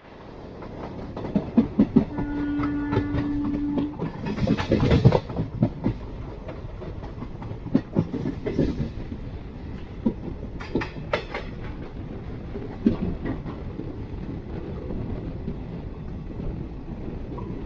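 Jan Shatabdi Express passenger train running, its wheels clattering over the rail joints in a steady rumble with scattered knocks. A short steady tone sounds for about two seconds near the start, and a louder rush of noise comes about five seconds in.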